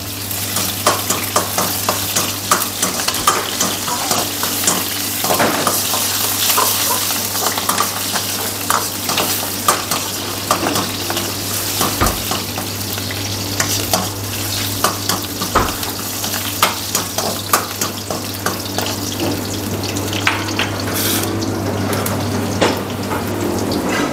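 Green chillies sizzling as they fry in hot oil in a steel wok, with a steel ladle stirring and scraping against the pan in many short clicks. A steady low hum runs underneath.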